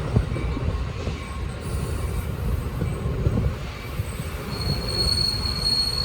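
A train rolling past on the tracks: a steady low rumble of wheels on rail with irregular clacks. A thin, high, steady wheel squeal comes in about four and a half seconds in.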